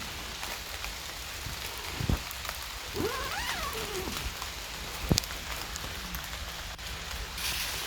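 Steady rain falling on a tent, with a couple of dull knocks and, about three seconds in, a short pitched call that rises and then falls.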